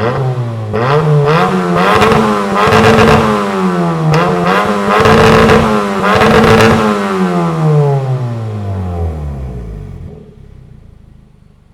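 Hyundai i30 (FD) 2.0-litre Beta four-cylinder engine through a Daven universal valved exhaust end and sport resonator, revving up and falling back several times. The revs then drop away steadily and the sound fades about ten seconds in.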